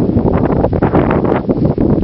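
Wind buffeting the microphone: a loud, gusty rumble with rapid irregular thumps.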